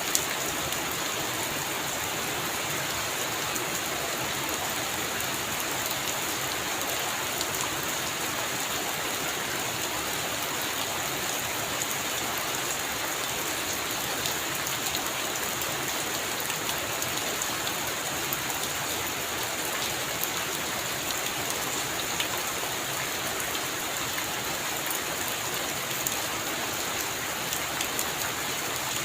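Heavy rain falling steadily on a roof, a dense even hiss with many small drop ticks.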